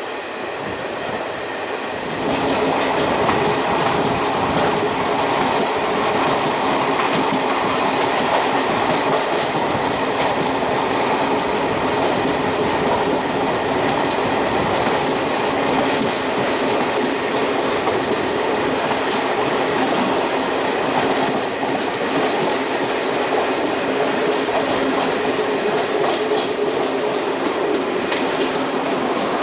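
Yelahanka–Kacheguda Express running along the track: the steady rumble of its wheels on the rails, with some clicks over rail joints. It grows louder about two seconds in, then holds steady.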